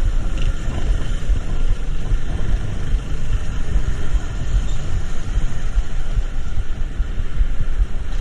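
Steady low vehicle rumble with a faint, even hiss above it.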